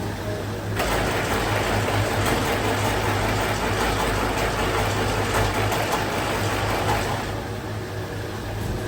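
Factory machinery running with a steady low hum, joined by a loud rushing, hissing noise from about a second in that drops away near the end.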